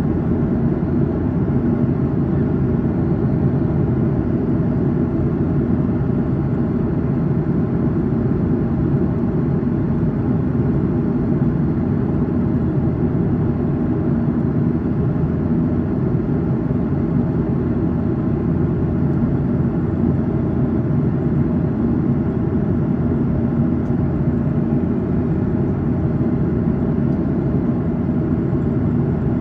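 Cabin noise of a Boeing 737-800 in flight, heard from a seat inside the cabin: its CFM56-7B turbofan engines and the airflow over the fuselage make a steady, even noise, mostly low-pitched.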